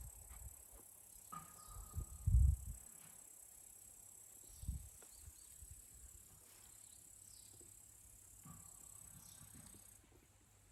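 Crickets chirping in a steady high-pitched drone, with a few dull low thumps, the loudest about two seconds in.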